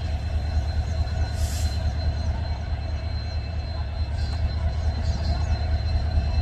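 Express passenger train at a railway station: a heavy, steady low rumble with a thin steady high whine over it, and a brief hiss about a second and a half in.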